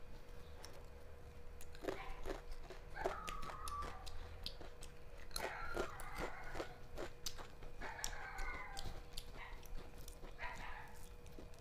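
Close-up eating sounds: chewing and biting food with many sharp mouth clicks, and a few short wavering pitched sounds in the background.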